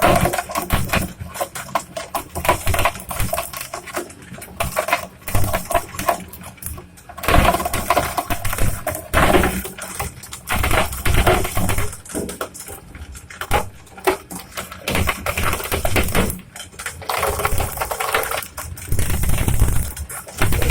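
Shredder-crusher running under load, its blades breaking up material with a dense, irregular crackle and crunch over the low hum of the drive, the crunching swelling and easing as pieces feed through.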